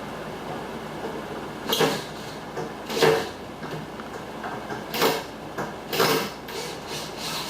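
Handling noises from a length of 1/2 inch aluminum channel being fitted against a door cutout: four short knocks and scrapes a second or two apart.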